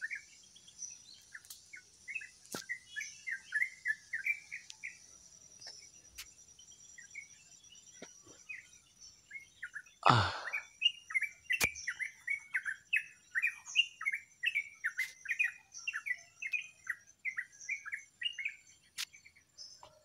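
A songbird high in a tree singing rapid runs of short chirps, in two long bursts with a pause between them. One sharp knock sounds about ten seconds in.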